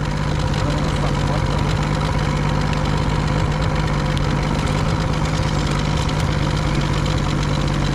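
An engine idling steadily, a constant low hum with a fine even rhythm.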